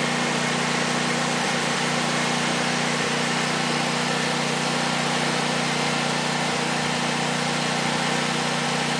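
An engine running steadily at idle, its low hum unchanging, with a constant hiss over it.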